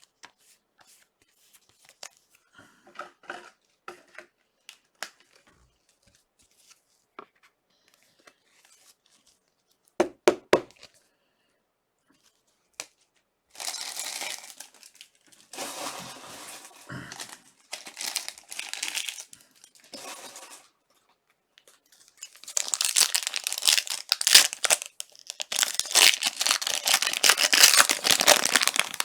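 Trading-card pack wrappers being torn open and crinkled: rustling bursts through the middle, then a louder, longer run of tearing and crinkling near the end, after scattered light clicks and a couple of sharper knocks in the first half.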